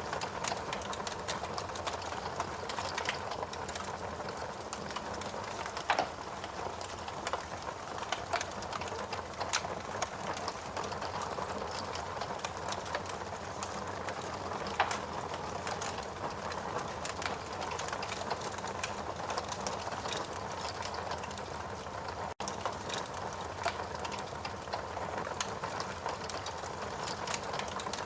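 Wood fire burning in a fireplace, crackling and popping continuously over a steady hiss, with louder pops about 6 and 15 seconds in. The sound drops out for a split second about two-thirds of the way through.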